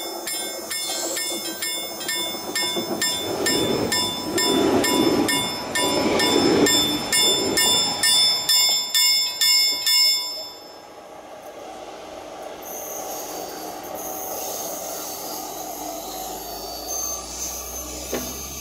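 A train passing close by while a level-crossing warning bell rings rapidly. The train is loudest between about four and ten seconds in, with a rhythmic pulsing. The bell cuts off suddenly about ten seconds in, and the train sound drops to a quieter steady rumble.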